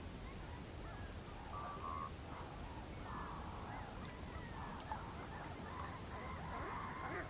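A flock of whooper swans calling across the lake, many overlapping honking calls that echo and grow denser near the end, over a steady low rumble.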